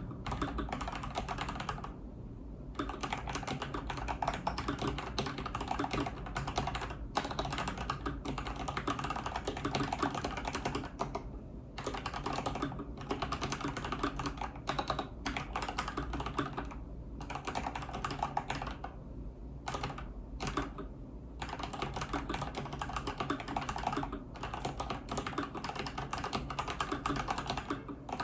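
Typing on an iQunix OG80 mechanical keyboard: fast, steady keystrokes clattering in runs, with short pauses every few seconds.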